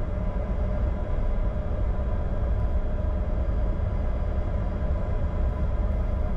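Steady cockpit noise of a Bombardier Challenger 605 taxiing: a low rumble with a faint steady whine from its CF34 turbofan engines at idle.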